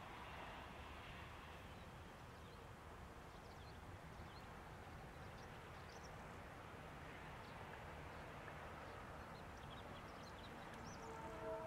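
Faint distant train rolling slowly: a low, steady rumble, with scattered short high bird chirps over it.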